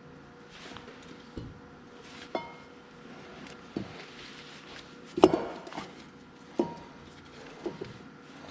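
Scattered sharp metal knocks and clinks, about seven of them, the loudest about five seconds in, several leaving a short ringing tone. They come from heavy steel axle and final-drive parts being handled and worked into place.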